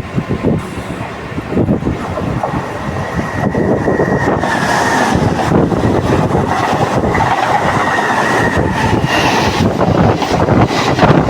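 Train in motion: a steady rumble and rattle of wheels on the track, with scattered knocks and a faint high steady tone through the middle.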